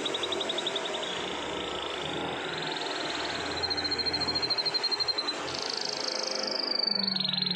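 Domestic canary singing long rolling trills: rapid pulsed notes strung together without a break, each roll held for about a second before shifting to a new pitch, with a higher roll a little past halfway.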